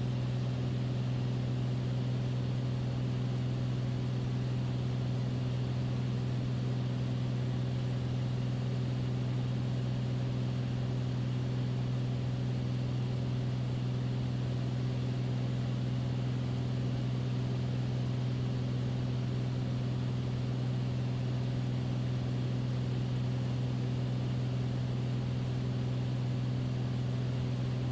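Beechcraft Bonanza's piston engine and propeller droning steadily in level cruise, a constant low hum with no change in pitch.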